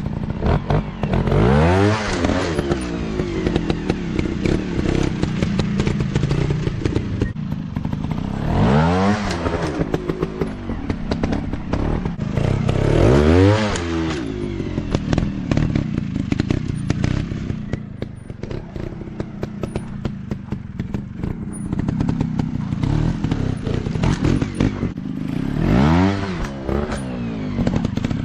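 Dirt bike engine running and revving hard four times, rising in pitch and dropping back each time, with scattered clattering knocks between the revs.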